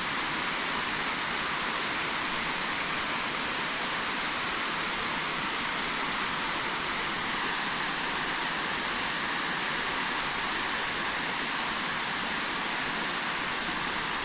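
Water pouring over a dam, a steady rushing.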